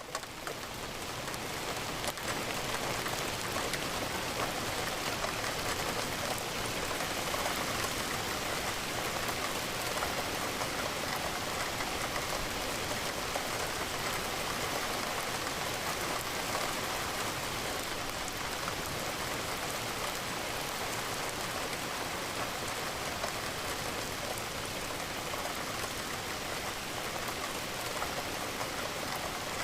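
Steady rain falling on a window, an even hiss of many raindrops. It dips briefly at the very start and swells back within about two seconds.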